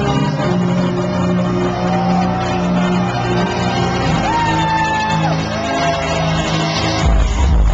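Trance music playing loud over a nightclub sound system, a held melody line with shouts from the crowd over it. A heavy bass beat drops in near the end.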